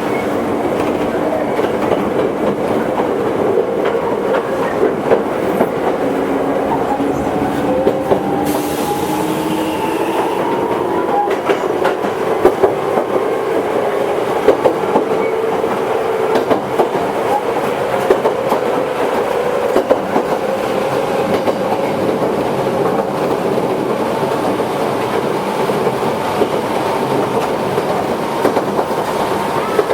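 Toyohashi Railway 1800 series (ex-Tokyu) electric train running, its traction motor whine climbing slowly in pitch as it picks up speed and then holding steady, over the clatter of wheels on the rails. A brief hiss comes about eight seconds in.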